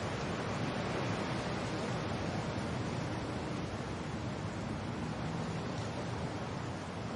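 Steady rain and wind, an even rushing with no breaks or separate events.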